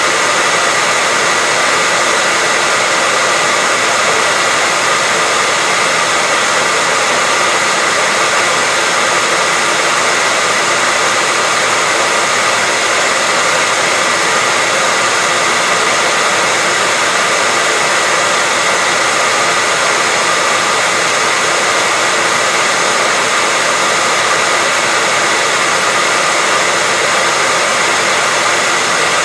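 Hair dryer running steadily: an even, unbroken rushing hiss with a faint steady whine.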